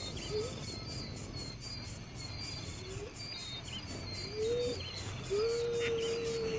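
Insects chirring steadily with birds calling over them: scattered short high chirps, a few brief low whistled notes, then one long steady low whistle starting past the middle that runs on to the end.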